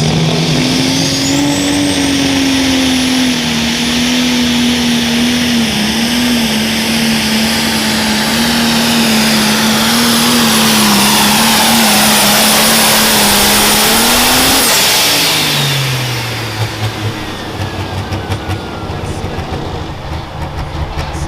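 Pro stock pulling tractor's turbocharged diesel engine held at full throttle for about fifteen seconds, with a high turbo whistle over it. The throttle is then cut: the engine pitch drops sharply, the turbo winds down with a falling whine, and the engine settles to an uneven low rumble.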